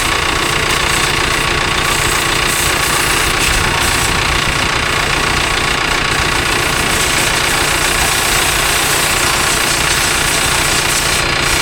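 A pressure washer running steadily: a constant motor hum under a steady hiss of water spray.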